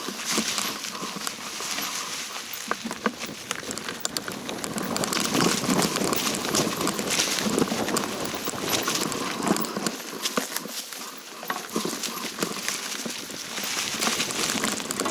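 Hiking footsteps crunching and knocking irregularly on a rocky, gravelly mountain trail, with rustling as the walker heads downhill.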